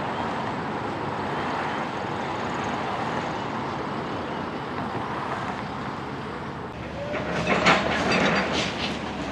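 Heavy demolition machinery running with a steady rumble while a building is torn down; about seven seconds in come loud crashing and cracking noises from the structure and debris, with a brief squeal, loudest about a second later.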